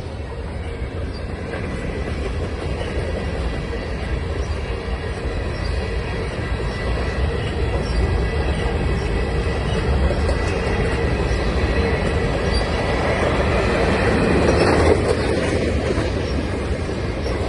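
CN freight train cars rolling past on the rails, a steady rumble of wheels with a thin high squeal running over it, swelling louder about three-quarters of the way through.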